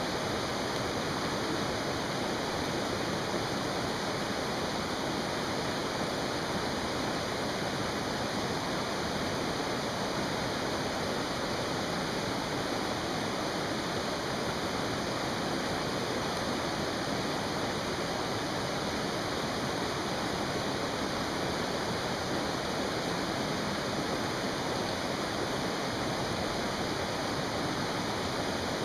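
Mountain stream rushing steadily, an even hiss of running water with no break or change.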